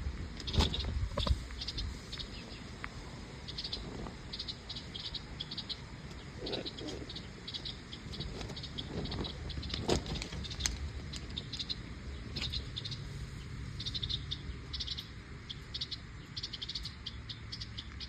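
Short bursts of light, rapid clicking, many times over, with a few louder knocks about half a second in and around ten seconds in: a pet cockatoo clambering about, its claws and beak on a glass divider and perch.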